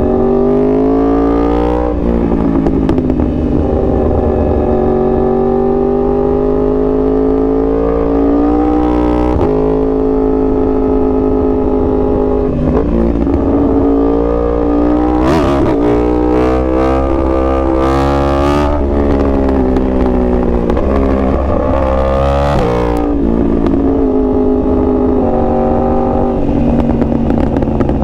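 2021 Yamaha R1's crossplane inline-four engine accelerating hard through the gears. The revs climb, drop sharply and climb again several times, with a few short rushes of hiss in the second half.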